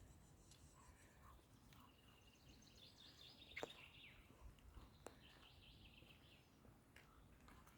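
Near silence, with faint high chirping trills from a small bird, twice in the middle, and a couple of soft clicks.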